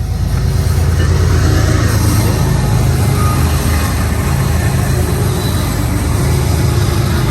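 Diesel locomotives of a BNSF intermodal train running with a steady, loud low rumble.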